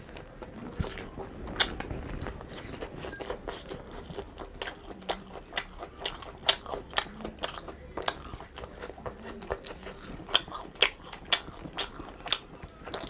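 A person chewing and biting food, with many sharp, irregular crunches, several a second.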